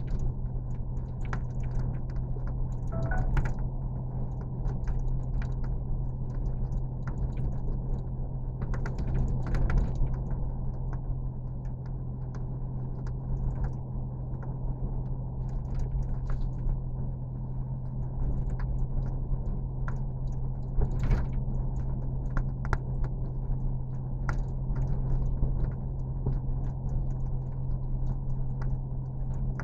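Steady low machine hum with scattered small clicks and taps.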